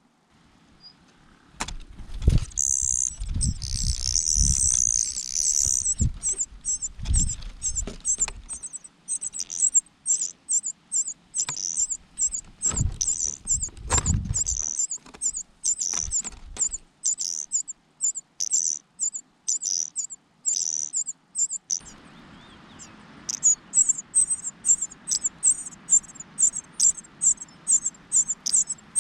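Nestlings begging: rapid, very high-pitched cheeps repeated several times a second, with a brief lull about three-quarters of the way through. Low thumps and rustling in the nest during the first half.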